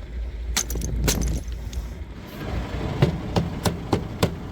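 Metal tire chains clanking as they are taken off a semi truck's wheels: a run of sharp metallic clinks, several in quick succession in the second half, over the low, steady idle of the truck's engine.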